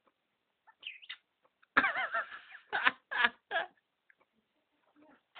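Parrot calls: a few faint clicks and a chirp, then a loud, harsh warbling squawk of under a second, followed by three short loud calls.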